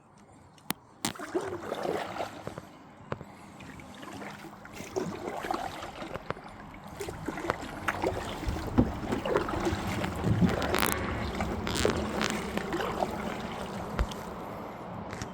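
Kayak being paddled: irregular splashing and dripping of water from the paddle, with sharp knocks of the paddle against the hull, the first two about a second in.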